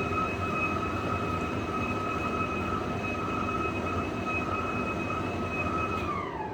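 Indesit tumble dryer running on test with its new drive belt and pulley wheel: a steady motor rumble with a high whine. Near the end the whine falls in pitch as the motor winds down.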